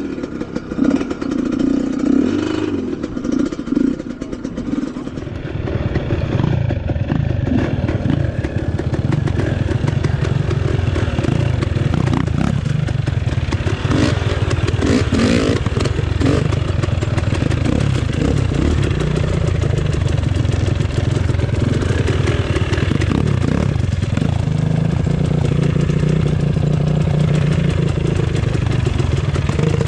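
Off-road motorcycle engine running while the bike is ridden along the trail, louder and steadier from about five seconds in, with its pitch rising and falling as the throttle changes.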